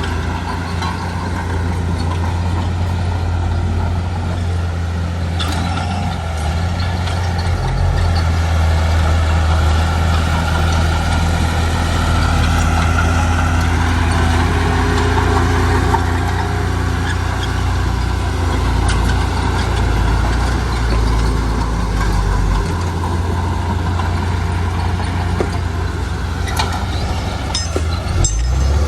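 Heavy diesel construction machinery engine running steadily with a deep hum, working harder and a little louder for a stretch in the middle, with a few clanks near the end.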